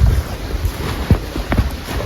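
Wind rumbling on the microphone, with a few short knocks about one and one and a half seconds in.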